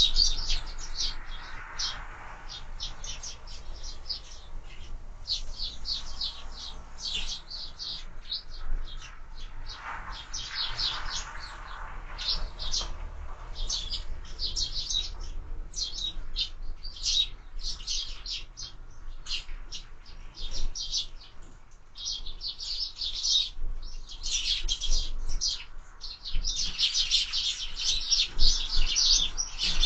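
Sparrows chirping continuously in a busy flock at a feeder, with many short, high chirps overlapping, thinning out in a few brief gaps and densest near the end.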